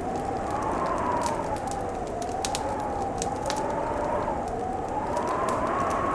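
Fireplace crackling with scattered sharp snaps, over a howling winter wind whose pitch slowly wavers up and down.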